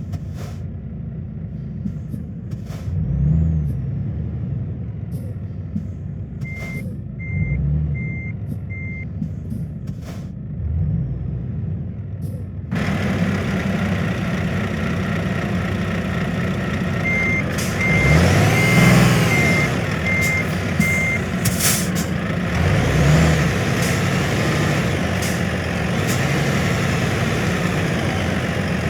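Truck reversing alarm beeping in two runs, four beeps and then six, about two a second, over a steady engine rumble that grows louder and fuller partway through, with a few short sharp hisses.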